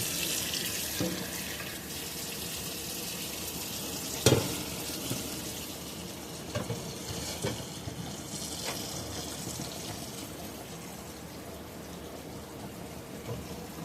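Kitchen faucet running as cooked egg noodles are rinsed in the sink to wash off starch. A sharp clank about four seconds in and a few lighter knocks a few seconds later.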